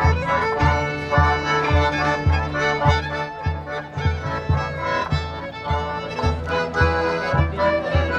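Live traditional Lithuanian folk music: a band playing a lively tune over a steady bass beat of about two a second.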